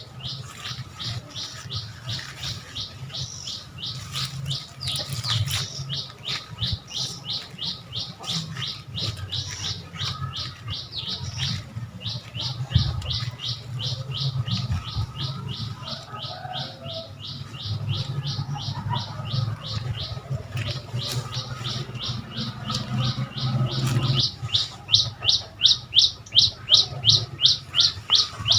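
A bird calling in a long, unbroken series of short, high, downward-slurred chirps, about three a second, growing louder near the end, over a steady low hum.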